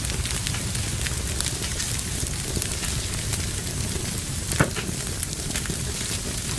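Wood fire burning in a fireplace, crackling steadily with a low rumble of flames under scattered small pops, and one louder snap of the wood about four and a half seconds in.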